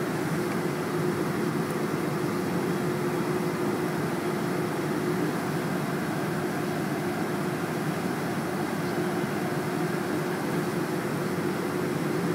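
Boeing 747-400 jet airliner running at a steady low power: a constant hum and rush with one droning note held throughout, not spooling up.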